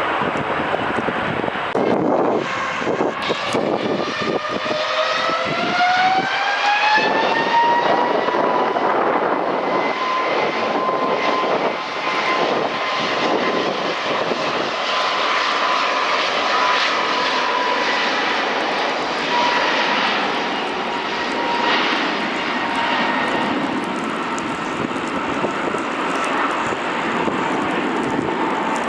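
Jet airliner engines spooling up: a whine that climbs in pitch over about four seconds and then holds steady, over a loud, continuous rushing engine roar.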